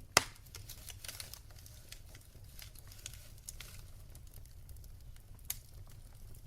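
Wood fire in a fireplace crackling, with irregular small snaps over a steady low rumble. A sharp, loud pop comes just after the start and another lighter pop near the end.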